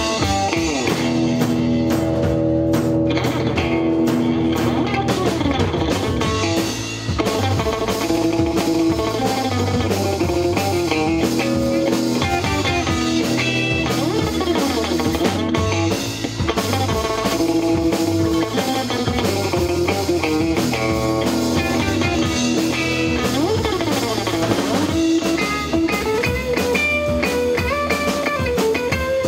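Rock band playing: electric guitar lines with bending notes over bass guitar and a drum kit.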